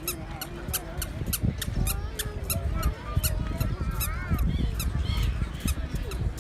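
A flock of seagulls calling, many short high calls overlapping with a few arching, rising-and-falling cries about four seconds in, over a steady low rumble.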